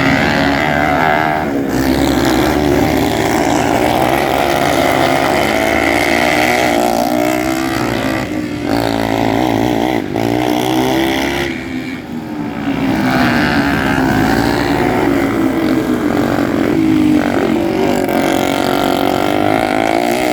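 Single-cylinder speedway motorcycle engines racing: loud, their pitch climbing as the throttle opens, then dropping briefly as they back off, over and over.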